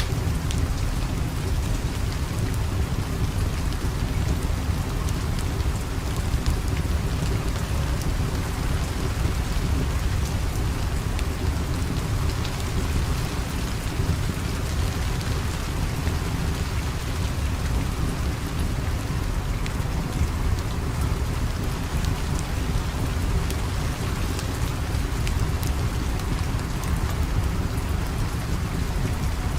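Steady rain, a continuous even hiss with a deep low rumble underneath and scattered small ticks of drops.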